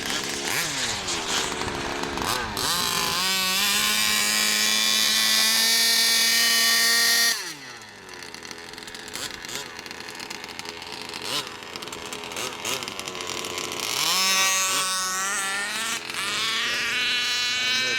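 Small RC car engine revving up and holding a high, steady wail for about four seconds, then dropping away sharply. It runs rough and lower for several seconds before revving up high again near the end.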